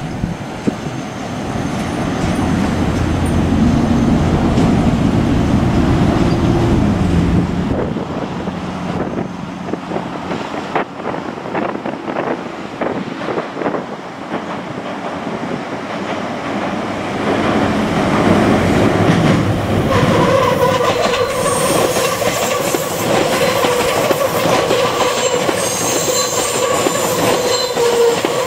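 Meitetsu electric train passing: a heavy low rumble for the first several seconds, then wheels clicking over rail joints, and from about two-thirds of the way through a steady, high-pitched wheel squeal.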